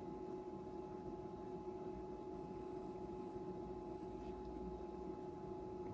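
Faint steady hum with a couple of constant tones and no distinct events: quiet workbench room tone.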